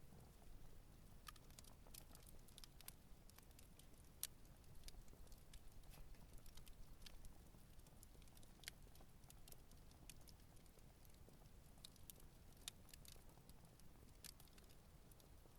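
Wood campfire burning, with faint scattered crackles and pops over a low steady rumble; the sharpest pop comes about four seconds in.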